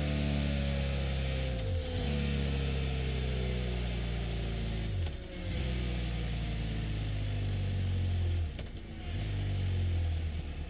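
BMW F900 GS Adventure's 895 cc parallel-twin engine running at idle through its stock BMW exhaust. The engine note sags briefly and picks back up three times.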